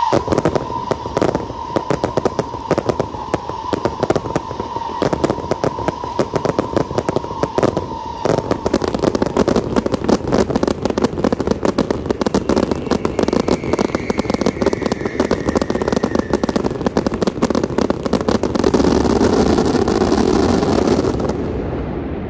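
Aerial fireworks display: rapid crackling and popping bursts with a steady high tone over the first eight seconds. It builds to a dense barrage that stops sharply about a second before the end, leaving a fading rumble.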